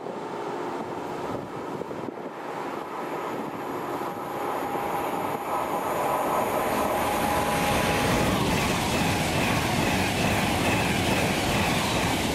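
A train running past on the line, growing louder over the first eight seconds or so and then holding loud. Steady high-pitched tones ride above the rumble of the wheels on the rails.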